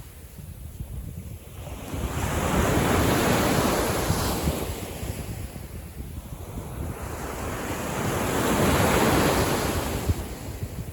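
Small waves from a calm sea breaking and washing up a beach, two surges about six seconds apart, with wind rumbling on the microphone.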